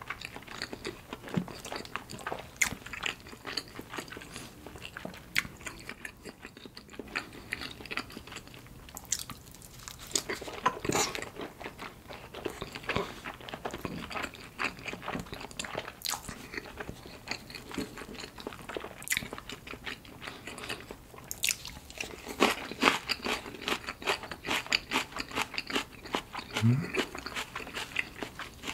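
Close-miked chewing of giant salmon sushi: soft fish and rice being bitten and chewed, a steady run of many small clicks and mouth sounds.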